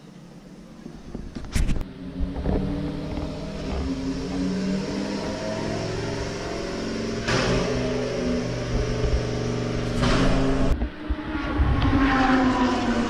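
Lamborghini supercar engines running at low speed, with the engine note rising in a rev near the end. The sound jumps abruptly twice where clips are cut together.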